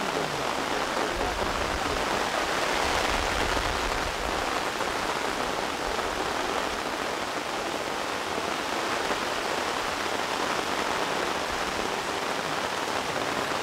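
Steady rain falling onto umbrellas and rain jackets.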